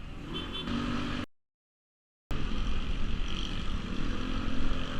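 Rusi RFI 175 motorcycle running on the road, with steady engine and road noise. The sound cuts out completely for about a second near the start, then comes back.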